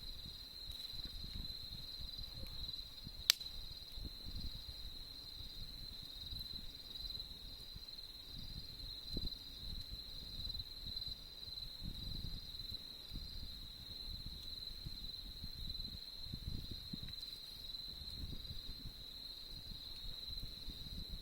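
Autumn insects, crickets, chirping in a steady, unbroken high trill, over a low rumble. A single sharp crack comes about three seconds in.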